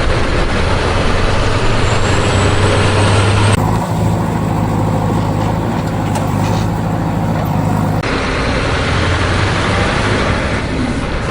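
Heavy truck engine running steadily with a low hum and a noisy rumble. The sound changes abruptly about a third of the way in and again about two-thirds of the way through, as if cut between clips.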